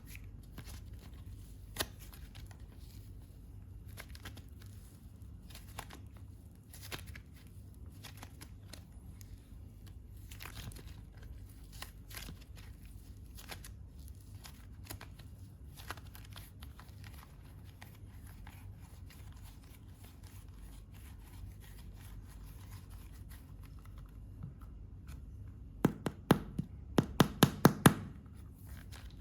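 Hands working soft modelling clay into balls, with quiet sticky peeling and tearing sounds scattered throughout. Near the end comes a quick run of about eight loud sharp taps.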